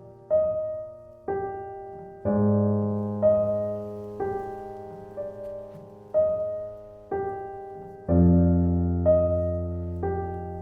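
Slow, gentle piano music: single notes struck about once a second and left to ring away, in a repeating figure, with deep bass notes entering twice.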